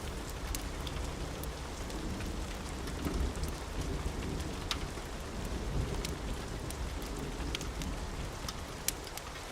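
Steady rain falling, with a low rolling rumble of distant thunder underneath and scattered sharp ticks.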